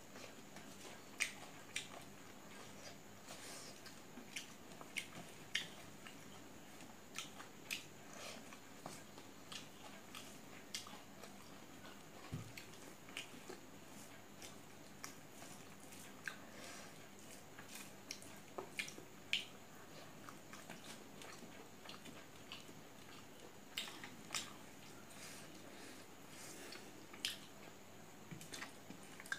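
Close-miked mukbang eating sounds: chewing and lip smacks over a mouthful of rice with kenaf curry and singju salad eaten by hand. Sharp, wet clicks come at irregular intervals throughout.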